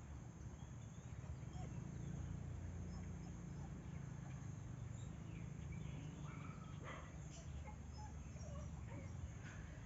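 Outdoor nature ambience: faint, scattered bird chirps over a steady low rumble and a thin, steady high hiss.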